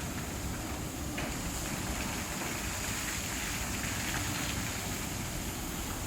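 Touchless automatic car wash running, high-pressure water jets spraying a car with a steady rushing hiss. The spray grows louder and hissier about a second in.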